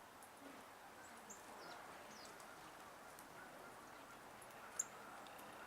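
Faint high chirps and chip calls of small birds at a feeder, scattered and brief, with one sharper, louder chip near the end, over a steady low background hush.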